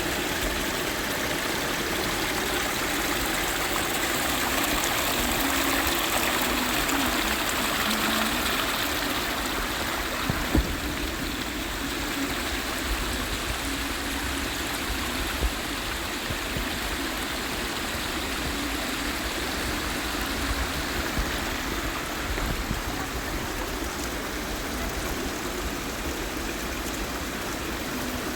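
Stream water rushing steadily, with one short knock about ten seconds in.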